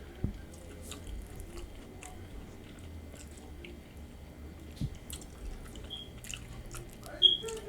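A person chewing nachos close to the microphone, with wet chewing and scattered small crunches and clicks. Near the end there is one brief, sharp, louder click.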